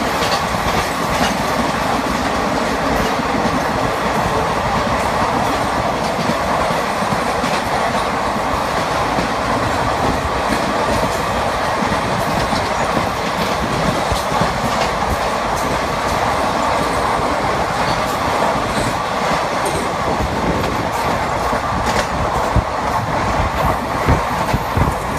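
Indian Railways passenger train running at speed, heard from aboard: a steady rumble of wheels on the rails with scattered sharp clacks from the track.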